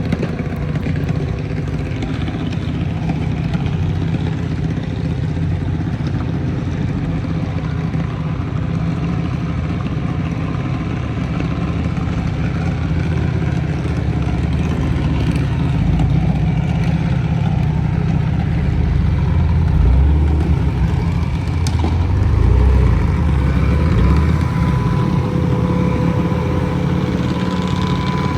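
A vehicle engine running steadily with a low rumble, growing louder about two-thirds of the way through.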